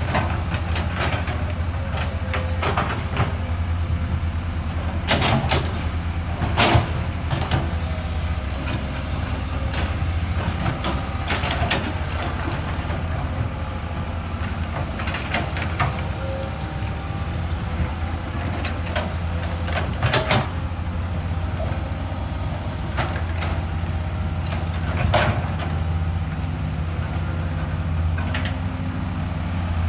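Diesel engine of a working excavator running steadily, with several sharp metallic knocks and clanks scattered through.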